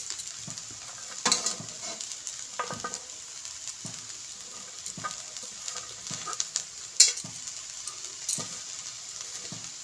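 Fried rice sizzling gently in an aluminium kadai on the stove, a steady hiss. A few sharp clicks break in, the loudest about seven seconds in.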